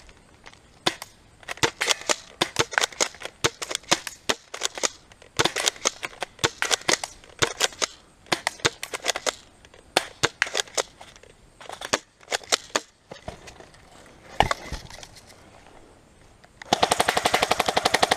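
Airsoft guns firing: scattered sharp single shots and short strings of shots, then, near the end, a louder, continuous rapid full-auto burst.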